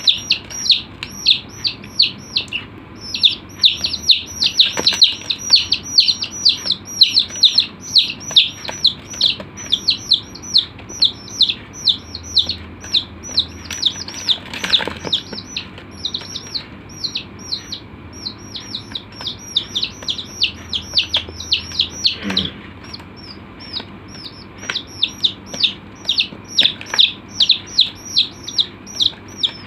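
A group of chicks peeping continuously: short, high, downward-sliding peeps, several a second and overlapping, with a brief rustle about halfway through.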